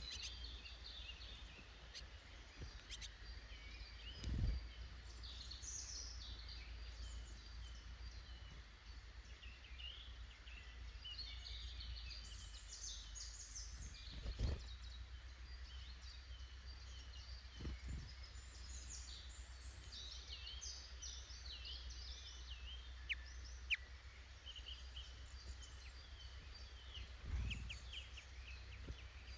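Small woodland songbirds chirping and calling throughout, many short overlapping notes, over a steady low rumble. A few dull thumps stand out as the loudest sounds, about four times.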